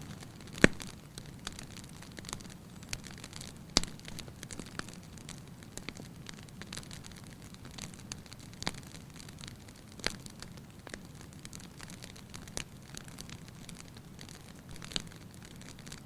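Wood fire burning in a fireplace: a steady low rush of flame with irregular crackles and sharp pops. The loudest pop comes about half a second in, and another strong one just under four seconds in.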